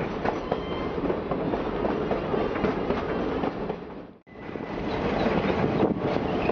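Passenger train running along the track, heard from an open observation car: a steady noise of wheels on the rails with scattered clicks and a faint thin squeal. The sound drops out for a moment about four seconds in, then resumes.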